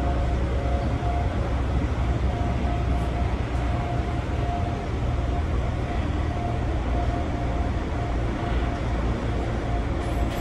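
Gakunan Railway electric train running, heard from inside the passenger car: a steady low rumble of the wheels on the track with a faint steady hum.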